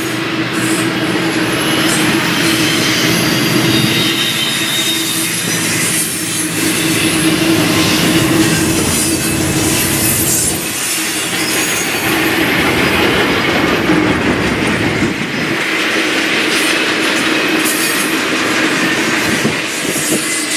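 BNSF intermodal freight train's trailer-on-flatcar cars rolling past close by: a steady, loud rumble and clatter of steel wheels on rail, with brief high-pitched wheel squeals.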